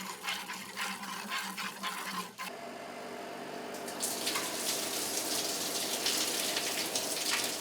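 Milk streaming into a pail as a cow is milked: quick, regular squirts for the first couple of seconds, then a steady rush of liquid pouring from about two and a half seconds in, louder after about four seconds.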